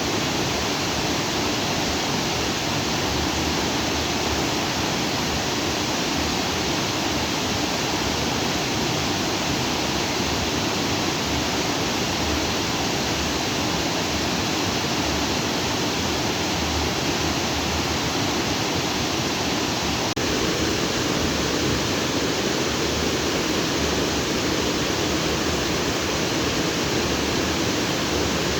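Stream water rushing steadily over and between rocks. About twenty seconds in there is a faint click, after which the rushing is slightly fuller and louder.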